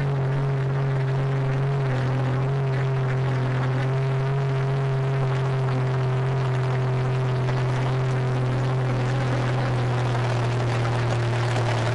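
Tractor engine running at a steady speed, a low, even drone whose pitch barely changes.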